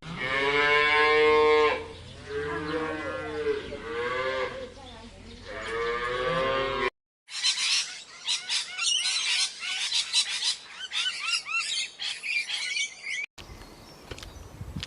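Cow mooing: about four long, drawn-out calls, one after another. After an abrupt cut about seven seconds in, a stretch of many short, high chirps follows.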